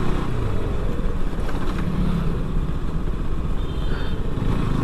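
Motorcycle engine running steadily while riding, with road and wind noise. A short high beep sounds about four seconds in.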